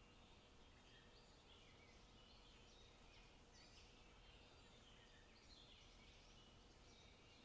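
Faint forest birdsong: many short chirps and calls from small birds, one after another, over a quiet low background hiss.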